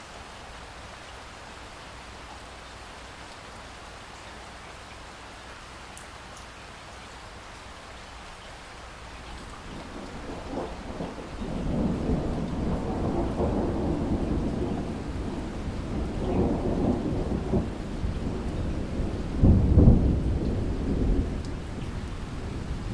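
Steady rain falling, then about ten seconds in a long rumble of thunder builds and rolls on, loudest in a heavy peal a few seconds before the end.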